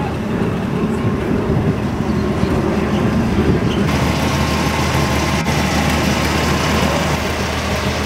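A car driving: a steady engine and road rumble, with the hiss getting brighter about four seconds in.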